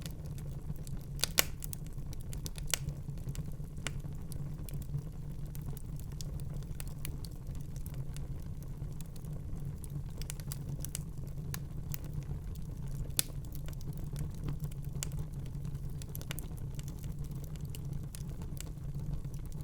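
Wood fire burning in a fireplace: a steady low rumble of the flames with scattered sharp crackles and pops, two louder pops about a second in and about two thirds of the way through.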